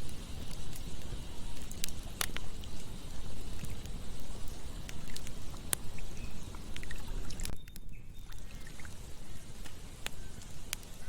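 Campfire crackling, with a few sharp pops, over a steady rush of flowing water. The hiss drops away briefly about eight seconds in.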